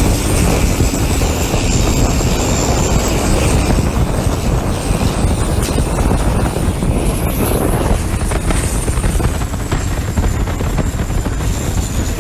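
Turbocharged common-rail diesel engine of a Thai longtail racing boat running hard and steady, a dense low rumble with a thin high whine above it.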